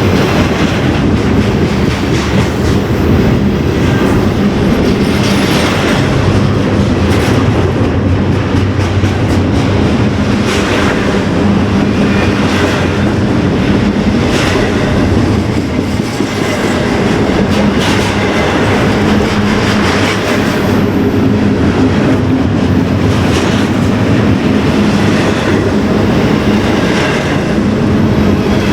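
A train rolling past, its wheels clacking over rail joints again and again, over a steady low drone.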